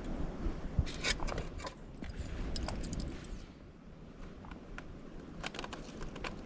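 Small hard objects clinking and rattling in three short clusters, over low wind noise on the microphone.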